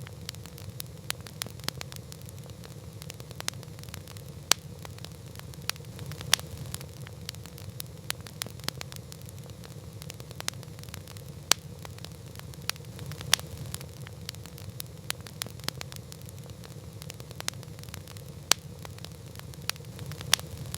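Wood campfire crackling: a constant irregular patter of sharp snaps and pops, a few much louder than the rest, over a steady low rumble.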